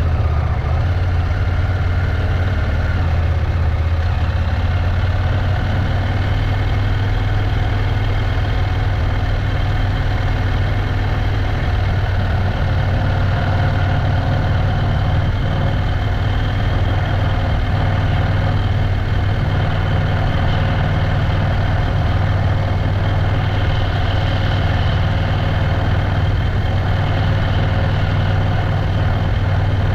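Motorcycle engine running steadily at an even pitch, with a constant low hum and no change in speed.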